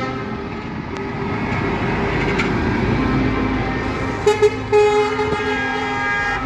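Truck air horns sounding, steady held tones with three short loud blasts about four and a half seconds in, over truck engine noise.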